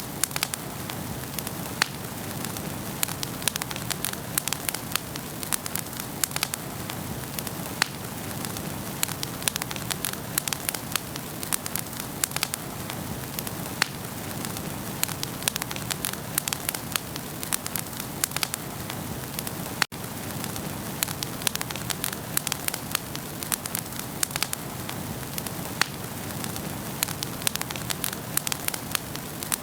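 Wood fire burning in a fireplace: a steady hiss with many sharp crackles and pops scattered throughout. There is a split-second dropout about two-thirds of the way through.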